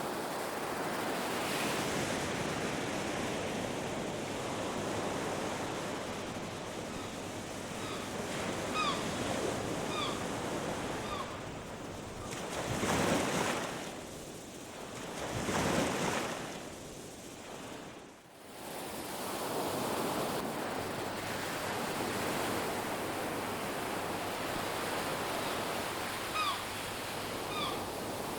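Ocean surf breaking and washing on a beach in a steady wash of noise, with two louder wave crashes a little before the middle. A few short bird chirps come in about a third of the way in and again near the end.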